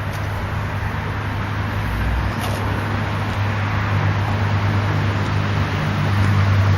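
Diesel train engine running with a steady low hum and a broad rumble, slowly growing louder as the train approaches.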